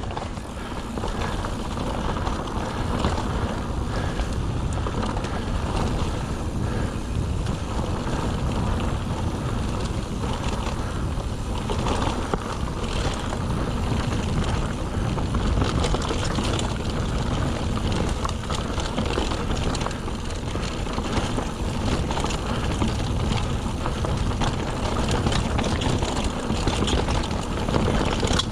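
Mountain bike ridden fast down a rough limestone trail: a steady wind rush on the microphone, with tyre noise and the bike rattling over rocks.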